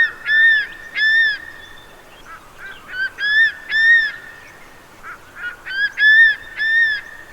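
Crested serpent eagle calling: three bouts, each a few short quick notes running into two or three longer, ringing, arched whistles.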